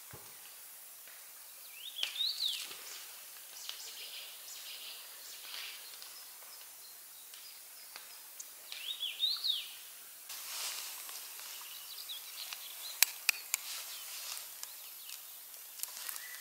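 A songbird sings the same short chirping phrase twice, several seconds apart, with quieter chirps between, over faint outdoor hiss. A few sharp clicks come near the end.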